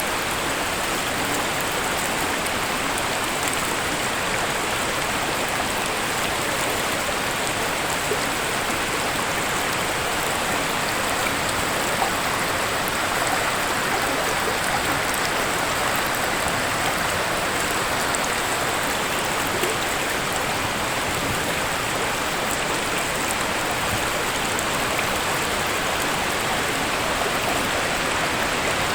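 Waterfall: a steady rush of falling water, an even hiss of splashing with no change in level.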